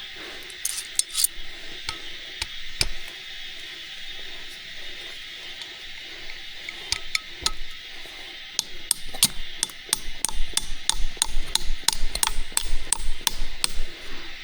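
Repeated sharp knocks, like hammer or wood strikes: a few scattered ones, then from about halfway a quicker run of two or three a second. Under them runs a steady high hiss of forest insects.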